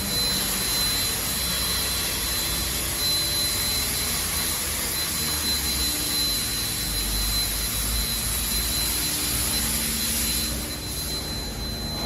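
Steady machine noise: a loud, even hiss with a constant high whine over a low rumble, dipping slightly near the end.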